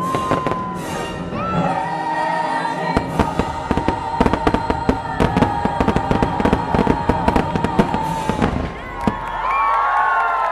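A fireworks barrage of rapid bangs and crackles over show music that holds one long note, then the music stops and crowd voices rise near the end.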